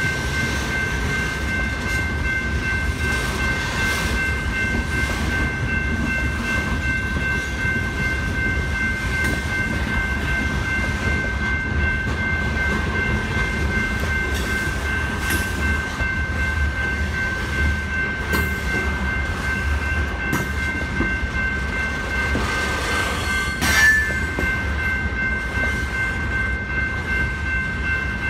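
Freight train of boxcars rolling through a grade crossing: a steady low rumble of wheels with scattered rail clicks. Over it the crossing's General Signals Type-2 electronic bells ring on without a break, and there is one sharp clank near the end.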